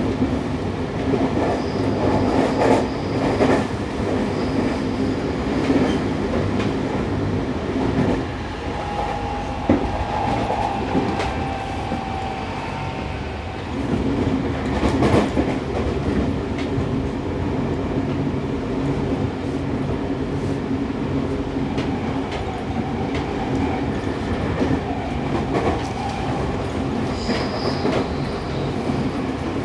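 Running sound heard inside a Seibu 6000 series electric train's motor car, which has Toshiba IGBT inverter traction equipment. The train is cruising with a steady traction-motor hum and the wheels clacking over rail joints. The sound drops for a few seconds about eight seconds in and comes back up at about fourteen seconds.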